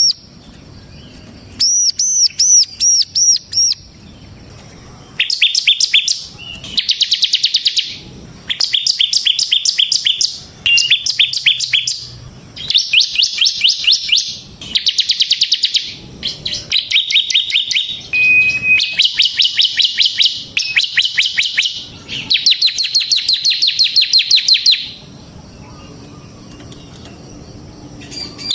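Bar-winged prinia (ciblek) singing: bursts of fast, rattling trilled notes in the drill-like 'ngebren' style, each burst one to three seconds long with short pauses between. The song stops for the last few seconds.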